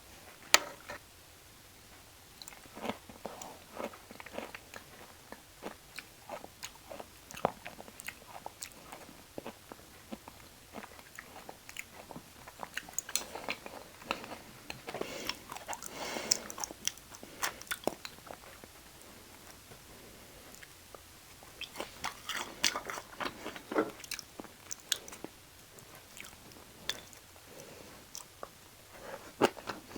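Close-miked chewing and biting of beef offal, raw liver and omasum, in wet clicks and short crunchy bursts that come in bouts with pauses between.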